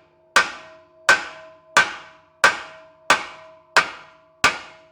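Hammer striking a steel exhaust pipe in a steady rhythm, about one and a half blows a second, each blow ringing. The pipe is being dented in to clear the axle, which has been rubbing on it.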